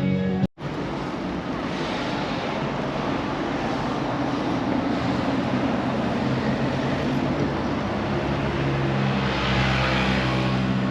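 An engine running under a steady rush of wind noise. Its low note grows stronger near the end.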